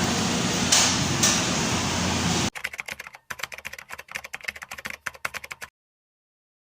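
Steady hum with two short clicks, then a quick, irregular run of light clicks and taps for about three seconds, ending in dead silence.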